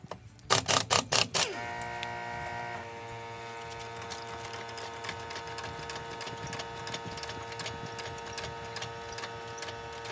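Air impact wrench hammering in five short bursts, then a steady mechanical hum with fine rapid ticking.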